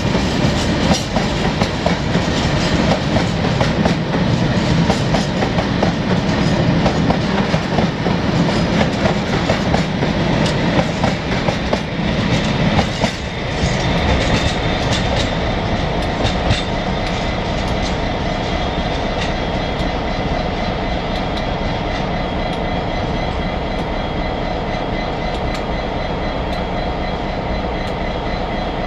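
Empty steel box wagons of a scrap train rolling past, their wheels clicking over rail joints in a steady clickety-clack with a low rumble. About 13 seconds in the wagons are gone and a diesel locomotive's engine is left running steadily.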